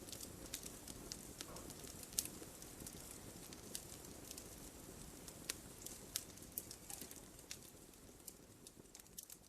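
Wood fire burning in a fireplace: a low steady hiss with irregular sharp crackles and pops from the logs, the loudest pop about two seconds in. The fire grows quieter toward the end.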